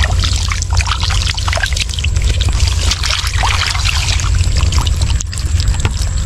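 Water splashing and trickling in irregular small splashes, over a steady low rumble.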